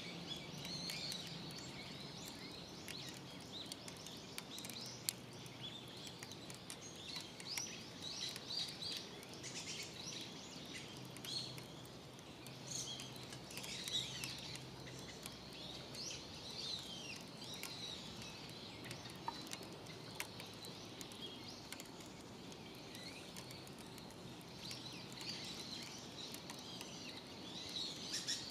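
Small birds chirping and calling over and over, with scattered faint clicks.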